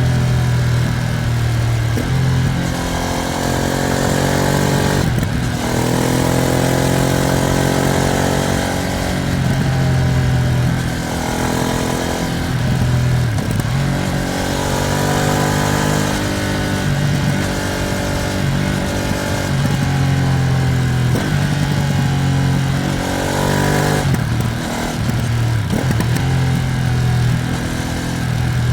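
Ducati Streetfighter V2S V-twin engine heard from the ride, under way in a break-in ride. The engine note repeatedly climbs in pitch as it revs up, then drops back and climbs again, over a steady rush of wind.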